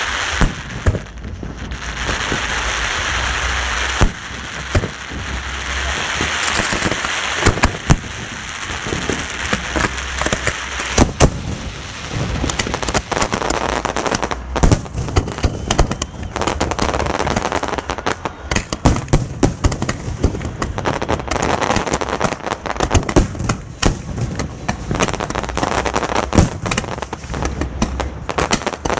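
Fireworks display: a loud hissing rush, then a quick string of sharp bangs and crackles that grows denser after the first several seconds.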